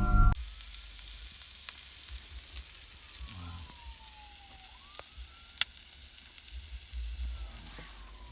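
Faint siren wailing over a steady hiss and low rumble: its pitch slides slowly down, jumps back up about four and a half seconds in, then slides down again. A couple of sharp clicks stand out, the loudest just past the middle.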